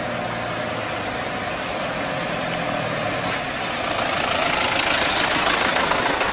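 A motor vehicle's engine running steadily, with a hiss that grows louder about four seconds in.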